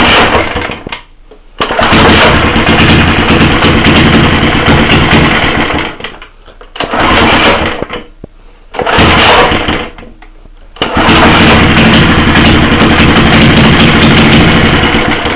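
A 75cc Suffolk two-stroke engine with no exhaust fitted runs loudly in fits. It catches and fires rapidly for one to four seconds at a time, cutting out suddenly four times and picking up again each time.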